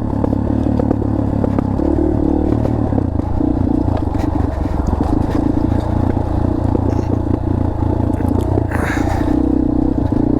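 Dirt bike engine running steadily at low revs, its pitch shifting about two seconds in, with clatter and scraping from the tyres and chassis going over rocky trail.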